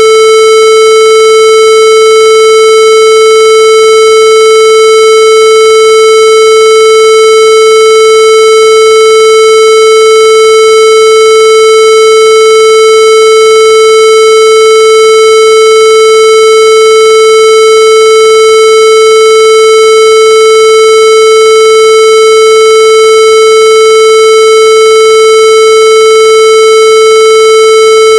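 Loud, unchanging electronic tone held at one steady pitch, with no breaks or changes in pitch.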